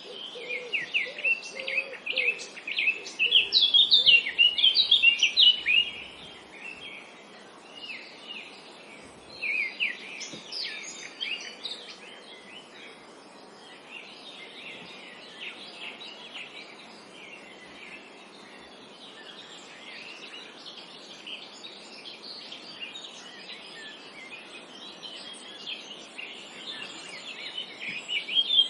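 Many small birds chirping and singing in a forest, busiest and loudest in the first six seconds, then sparser chirps over a steady background hiss, picking up again near the end. A low, repeated call sits under the birdsong in the first two seconds.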